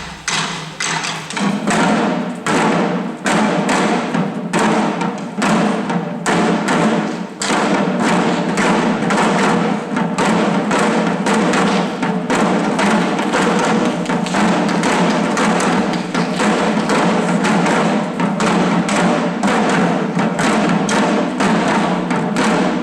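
Shishi-odori deer-dance drums: small taiko worn by the dancers, beaten in fast, dense strokes, with voices singing underneath. The drumming stops abruptly at the end.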